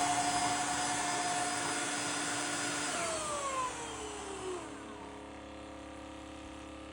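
Cordless vacuum mop running its self-cleaning cycle in the dock: a steady motor whine that winds down in falling pitch about three seconds in, leaving a quieter hum as the cycle moves to its next stage.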